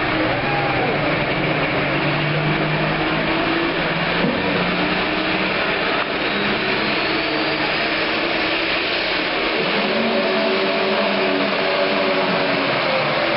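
Pro stock pulling tractor's turbocharged diesel engine running hard at high revs through a pull. The engine is loud and steady, and its pitch shifts about six seconds in.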